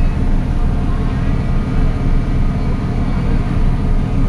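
Steady low rumble on board a moving passenger ferry, with no pauses.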